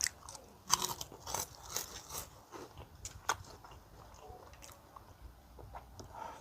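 Close-up biting and chewing of crunchy Smax Ring ghost-pepper snack rings, with irregular sharp crunches, the loudest about a second in and again near the middle, and softer chewing between.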